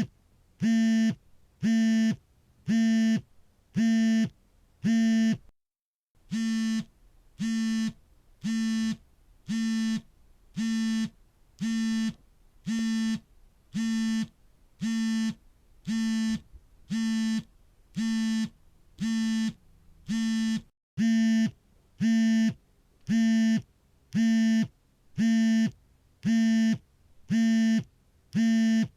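Smartphone vibrating on an incoming call: even, pitched buzzes about once a second, each lasting a little over half a second.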